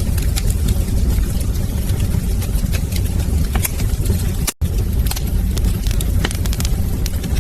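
Wood fire crackling, with frequent sharp pops and snaps over a steady low rumble of burning flames. About halfway through, the sound cuts out for a split second, then carries on.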